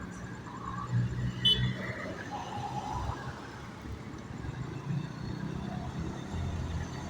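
A truck's engine running on the road, with a short sharp click about a second and a half in.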